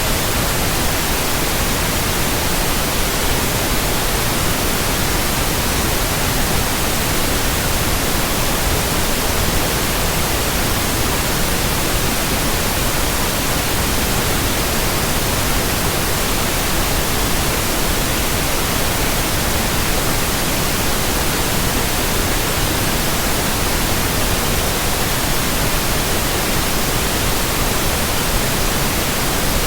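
Synthetic white noise: a steady, even hiss spread across all pitches, unchanging throughout.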